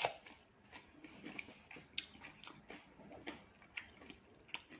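Faint chewing of raw salad leaves: soft crunches and small mouth clicks, irregular and a few a second, with a sharper click at the start and another about two seconds in.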